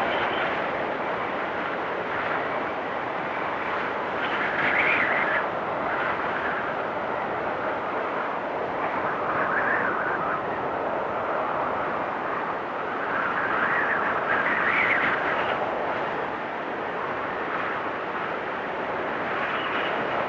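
Blizzard wind blowing steadily, rising in three or four gusts that swell higher and louder before easing back.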